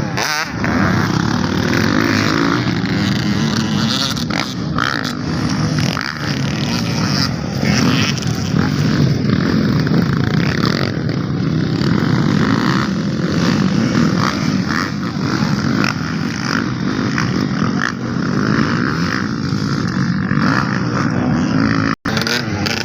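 Motocross bikes running on the track, several engines blending into one loud, steady drone. The sound cuts out for an instant near the end.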